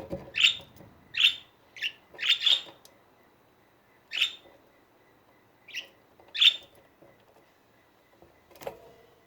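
Budgerigars chirping in short, high calls: a quick run of chirps in the first three seconds, then a few more spaced out. A single soft knock comes near the end.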